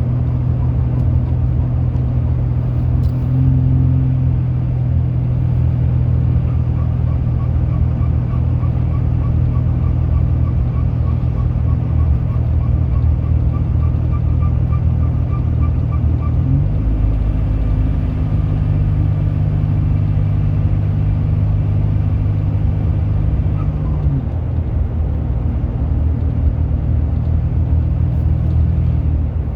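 Turbocharged car engine running steadily with a low drone. Its pitch shifts down about 16 seconds in and back up near 24 seconds, and a faint wavering higher tone sits over it for several seconds in the middle.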